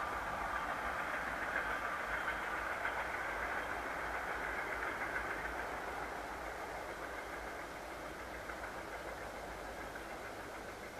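Mixed freight train hauled by British Rail Class 45 diesel locomotive 45 069 climbing near the top of Hemerdon Bank, its running sound fading steadily as it draws away.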